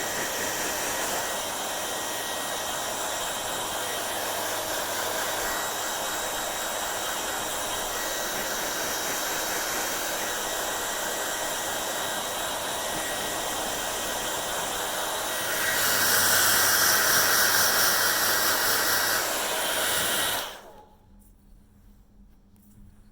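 Hair dryer running: a steady rush of blown air with a faint motor whine. It grows louder for a few seconds near the end, then is switched off about twenty seconds in.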